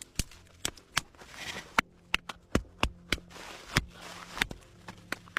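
Ice-covered, wet firewood knocking and clicking as it is handled: about a dozen sharp, irregular knocks over a faint steady low hum.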